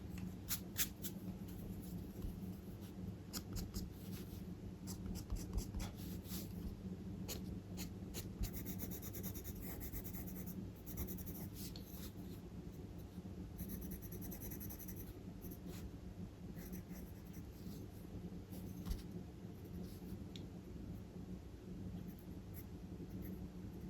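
Charcoal drawing tools on paper: short strokes and ticks in quick succession, then longer scratchy hatching strokes. A low steady hum runs underneath.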